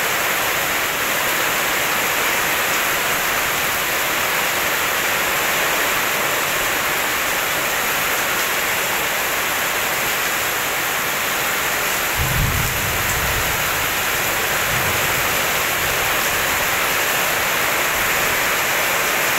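Steady rain falling, a continuous even hiss, with a low rumble of thunder rolling in about twelve seconds in and fading over a few seconds.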